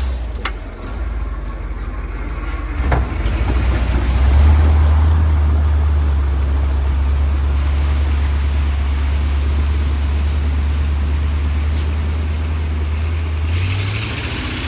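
Diesel engine of a 1985 KAMAZ 4310 6x6 truck, a V8, running under load off-road with a low, steady drone. It eases off about half a second in and picks up again around four seconds in, with a few sharp knocks and clicks, and a hiss joins near the end.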